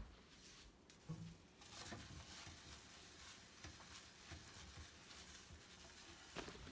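Near silence: faint hiss with a few soft, scattered ticks.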